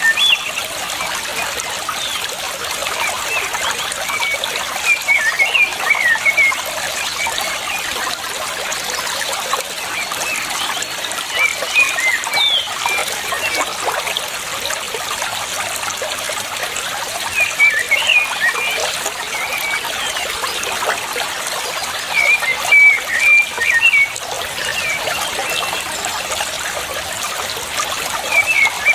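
Water trickling steadily, with a small bird's short high chirps coming in brief clusters several times.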